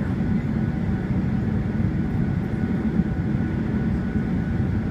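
Steady cabin noise inside a Boeing 737-800 taxiing after landing: its CFM56 engines at idle give a low rumble, with a faint steady whine above it.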